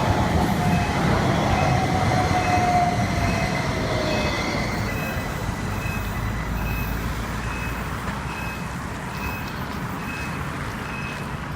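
Light rail tram pulling away over a level crossing: a low rumble that slowly fades, and a motor whine falling in pitch over the first few seconds. Through it the crossing's warning signal sounds in short, evenly spaced high tones, a little under one a second.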